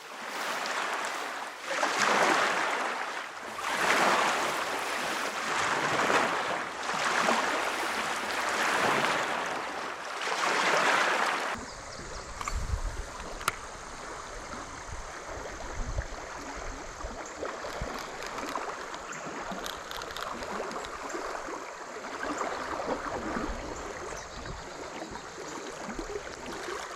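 River water rushing, swelling and fading about every two seconds, then an abrupt change about eleven seconds in to quieter flowing water with wind rumbling on the microphone and a few faint clicks.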